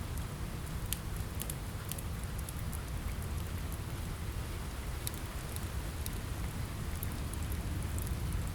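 Steady rain on a window together with a crackling log fire: a constant even hiss of rain over a low rumble, with scattered sharp crackles throughout.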